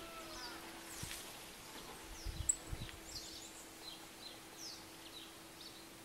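Small birds chirping in short, high, falling calls scattered throughout, over a faint steady hum. A few dull thumps and a click come about two and a half seconds in.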